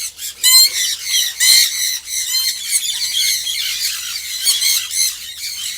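Young sun conures squawking: a rapid, continuous run of shrill, harsh calls, one after another with only brief gaps.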